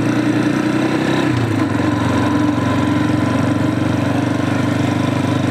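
Tekken 250 motorcycle engine running at low speed on a gravel road, steady apart from a brief dip in pitch about a second in as the throttle changes.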